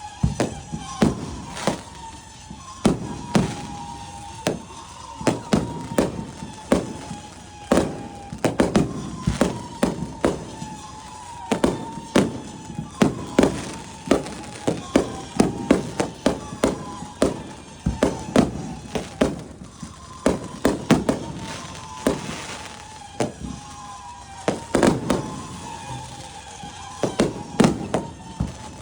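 Fireworks going off in a dense, irregular barrage: sharp bangs, often several a second, each trailing off in a low rumble. Behind them a thin tone slides slowly downward and keeps restarting.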